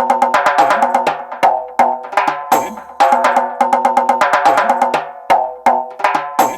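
Electronic drum machine groove: a fast rhythmic pattern of sharp, pitched, wood-block-like hits with kick and snare, dropping out briefly a few times.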